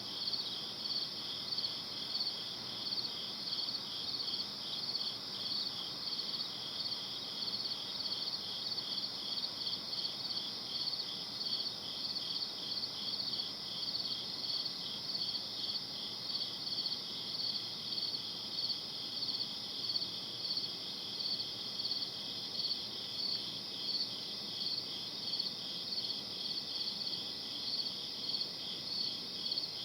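Crickets chirping steadily at night: high, even chirps, one set pulsing about one and a half times a second over a faster, continuous chirping.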